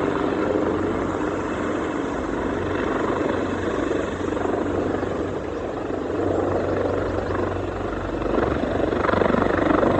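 Search-and-rescue helicopter running close by: its rotors and turbine engines make a steady dense noise over a low hum, growing a little louder near the end.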